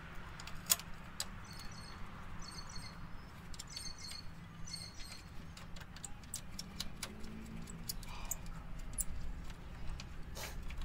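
A bird chirping in short high phrases, about one a second through the first half, over scattered light clicks and taps of hand work on small nuts and wiring.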